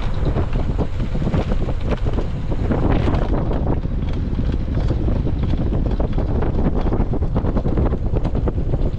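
Wind buffeting the microphone of a camera riding on a moving bicycle: a steady low rumble, with scattered small rattles.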